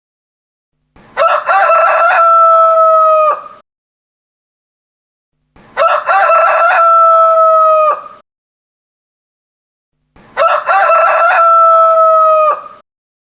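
Rooster crowing three times, about four and a half seconds apart. Each crow lasts about two and a half seconds and ends in a long held note, with dead silence between crows. The three crows have the same shape.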